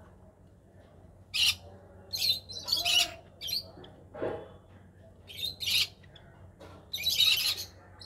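Caged birds calling: a string of about seven short, harsh squawks and chirps, spaced a second or so apart.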